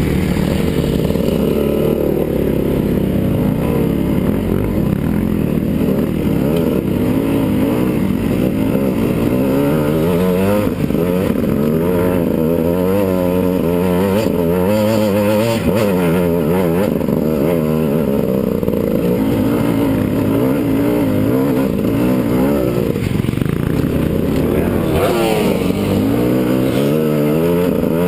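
Enduro dirt bike engine, close up, revving up and down over and over as it labours up a steep, rough trail.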